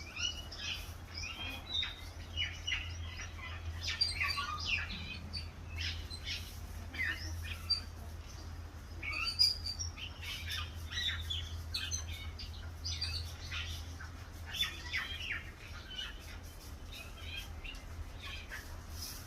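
Small birds chirping and calling, many short high notes coming thick and fast, with a low steady hum underneath.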